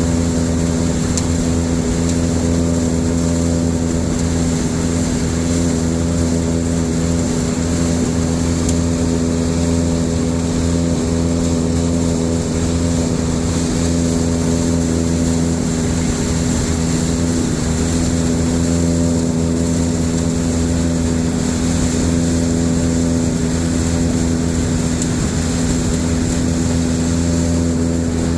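Tractor-driven silage blower filling a tower silo, running with a steady, unchanging engine drone.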